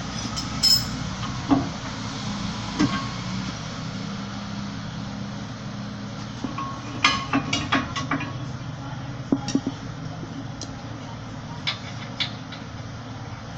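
Scattered metallic clinks and knocks of hand tools on brake parts, with a quick run of several clinks about seven seconds in, over a steady low hum.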